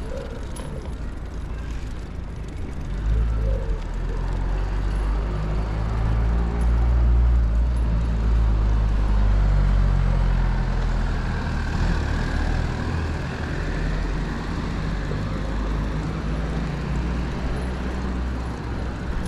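Street traffic heard from a moving bicycle, with a large motor vehicle's engine passing close by. It is loudest from about three seconds in until about twelve seconds, then eases back to general traffic noise.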